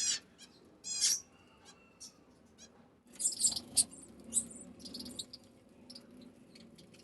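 Budgies chirping and chattering, in scattered bursts of high-pitched chirps and short trills, busiest about three seconds in.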